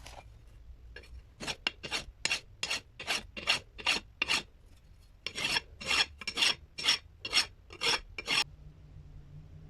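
Repeated rasping strokes, about two and a half a second, in two runs with a short pause about five seconds in.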